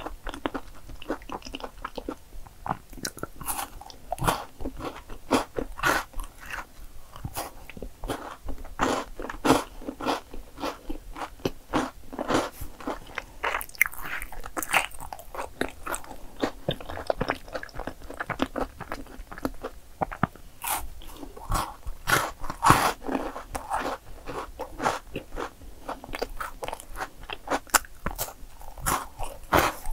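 A Milka chocolate bar bitten and chewed: repeated crisp snaps and crunches as pieces break between the teeth, irregular throughout.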